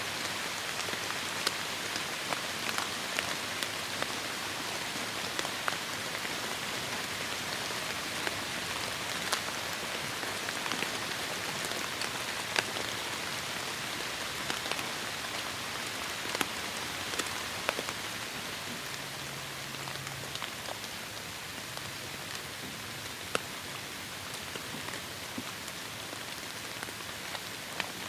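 Heavy rain falling steadily, a dense hiss with scattered close drops ticking sharply, easing slightly about two thirds of the way through.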